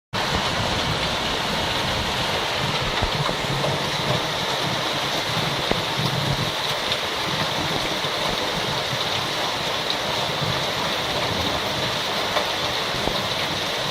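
Heavy rain falling steadily in a thunderstorm: an even hiss with a few faint ticks of drops.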